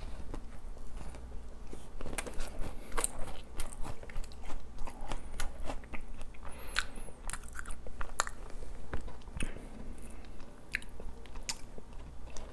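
Close-up mouth sounds of biting into and chewing a chocolate-coated, cream-filled doughnut, with many sharp clicks and crunches throughout.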